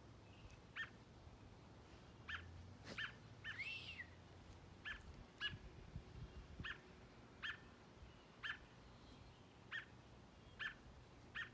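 American robin calling: short calls repeated about once a second, with one slurred whistled note about three and a half seconds in.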